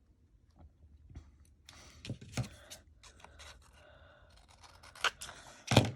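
Scissors snipping a paper tag: a handful of separate short cuts with faint paper rustling between them, the loudest snip near the end.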